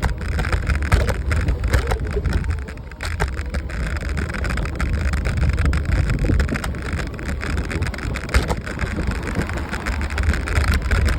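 Loud, steady low rumble and rushing noise with scattered clicks, typical of wind buffeting a handheld microphone while on the move.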